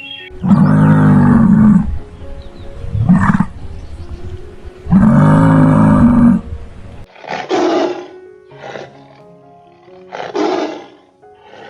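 A large animal's loud, low roaring calls: two long ones with a short one between them. These are followed by three shorter, higher calls. Background music plays throughout.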